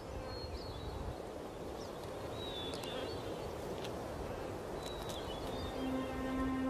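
Outdoor ambience with a faint steady hiss and scattered thin, high bird chirps, a few of them short glides. A low sustained music note comes in near the end.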